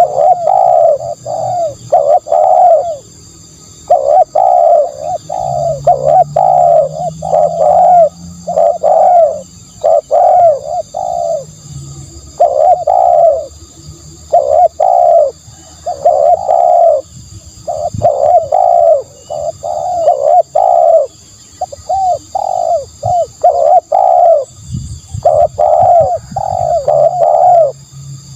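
Spotted dove cooing over and over, in quick runs of short, loud coo notes broken by brief pauses.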